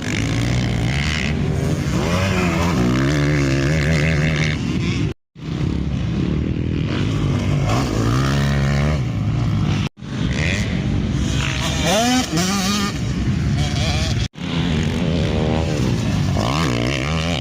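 Motocross bikes' engines revving hard, their pitch climbing and dropping through the gears as they ride the track. The sound is cut into several short stretches with brief drops to silence between them.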